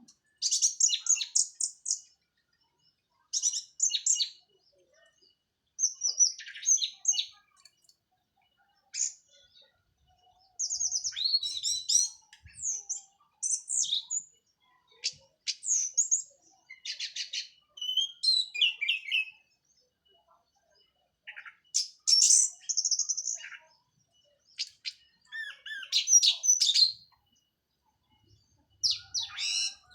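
Orange-headed thrush (anis merah) singing: a series of fast, varied, high-pitched song phrases about a second long, each followed by a pause of a second or two.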